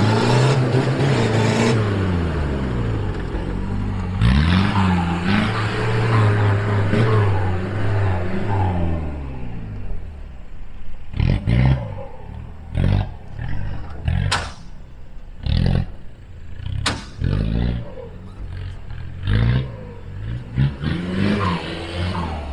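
An off-road 4x4's engine revving, its pitch rising and falling for about ten seconds. It is followed by a string of short, separate bursts about a second or two apart.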